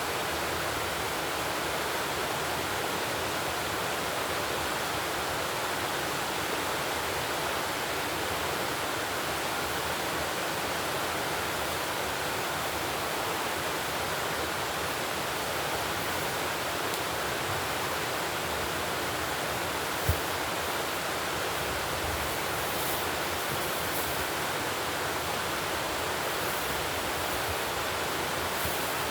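Steady, even rushing noise like running water, unchanging in level, with one short knock about twenty seconds in.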